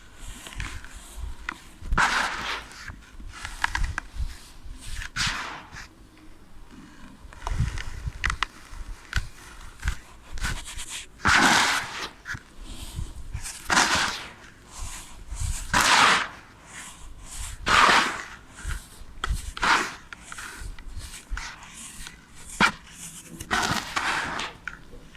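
Moulded clear ASMR sand being crushed and crumbled by hand. It makes a crisp crunch about every one to two seconds, with soft low thuds as pieces break away, and the loudest crunches come in the middle.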